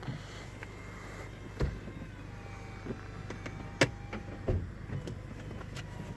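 2016 Buick Cascada's power convertible soft top in motion, raised at the touch of a button: a steady low motor hum with a few sharp clicks and clunks from the mechanism.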